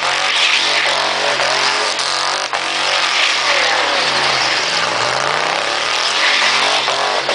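Mini truck engine held at high revs during a burnout, over a constant hiss of spinning tyres. About four seconds in the revs drop and then climb back up.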